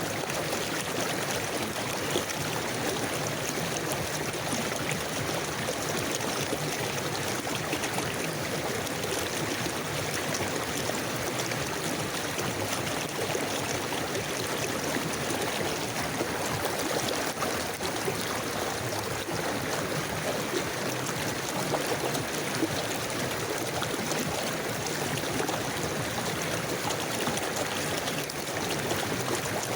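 A river flowing steadily, a constant rush of water with light gurgling and trickling.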